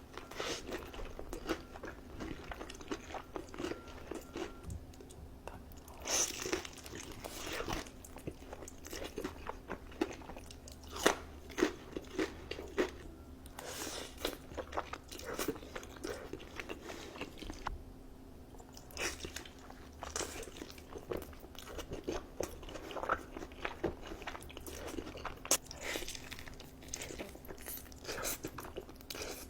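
Close-miked eating: a person biting into and chewing crunchy food, with a dense run of crisp, irregular crunches that pause briefly about two-thirds of the way through.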